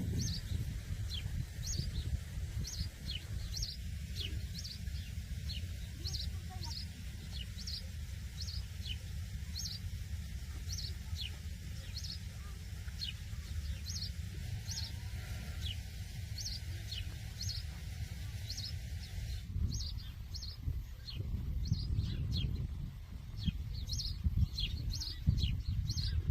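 Small birds chirping: short, high, falling chirps, two or three a second, over a steady low rumble.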